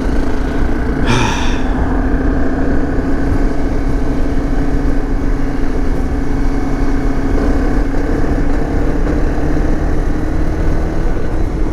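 Dirt bike engine running at steady revs under way, its pitch holding nearly constant. A short hissy burst stands out about a second in.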